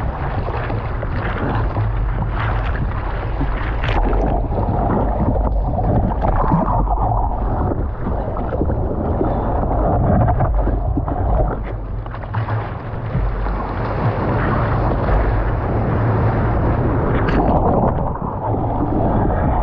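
Loud rushing and sloshing of ocean water and wind buffeting the microphone: a steady low rumble with irregular hiss and splashes, the sound of a camera out in the surf.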